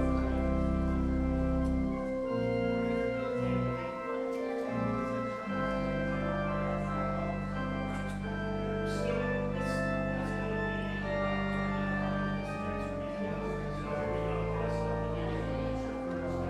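Church organ playing a postlude: sustained chords over deep held bass notes, the bass dropping out for a few seconds near the start and then returning.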